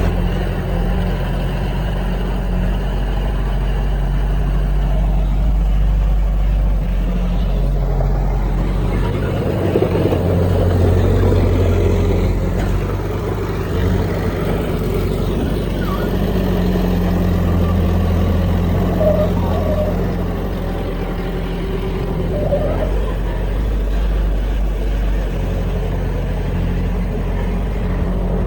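Heavy diesel engine of earthmoving machinery running, its low note swelling and easing a few times as the load changes.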